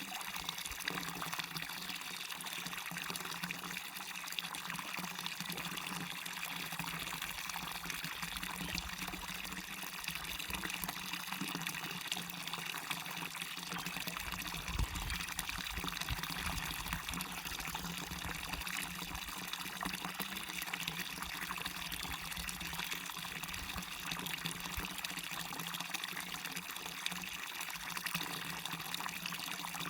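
Waterfall and river water rushing steadily in an even, unbroken hiss, with a brief low rumble about halfway through.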